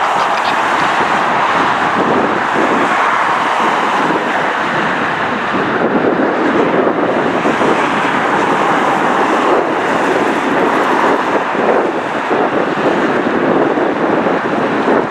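A large jet airliner's engines running as a loud, steady roar, mixed with wind buffeting the microphone.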